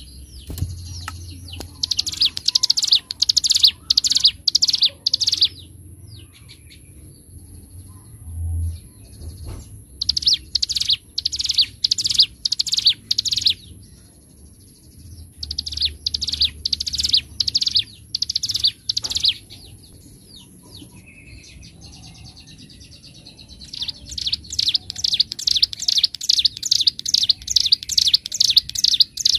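Ciblek gunung (a prinia) singing loud phrases of sharp, high notes repeated rapidly, each phrase a few seconds long with pauses between them. The last phrase is longer and quicker.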